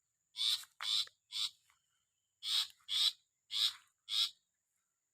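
Long-tailed shrike (cendet) parent giving short, harsh, rasping calls near its nest, seven in all: a run of three, a pause of about a second, then four more.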